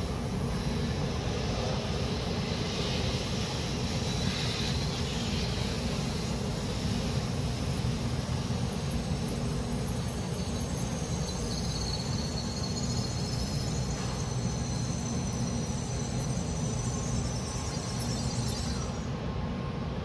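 A Tokaido Shinkansen train moving slowly along the station platform, with a steady running noise. About halfway through, a faint high-pitched wavering squeal or whine joins it.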